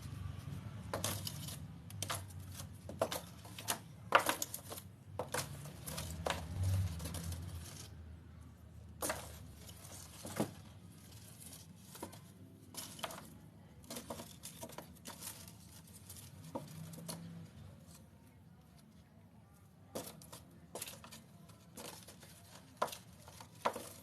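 Cats at play: irregular scratching, tapping and rustling, densest in the first half, over a low rumble during the first several seconds.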